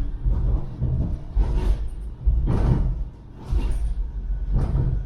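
A Metrolink tram (Bombardier M5000) running along the track, heard from inside: a steady low rumble with a brief hissy swell of noise roughly once a second.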